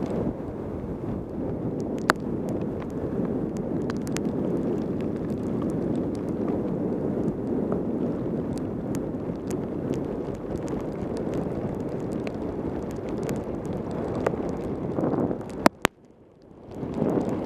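Wind rushing over a helmet camera's microphone during a fast mountain-bike descent in heavy rain, with scattered sharp ticks. Near the end two sharp clicks come before the rush suddenly drops away for about a second and then builds back.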